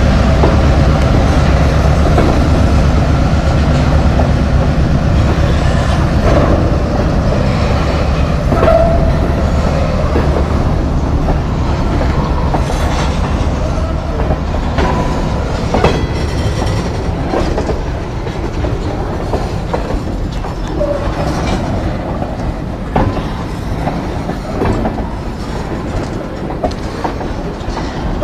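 Train rolling past: a steady low rumble that eases off gradually, with wheels clicking over rail joints and a few brief wheel squeals.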